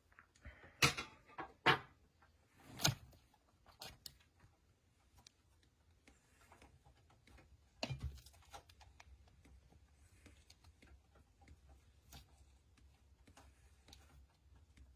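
Several sharp clicks and knocks in the first three seconds, a heavier thud about eight seconds in, then faint scattered ticks over a low hum.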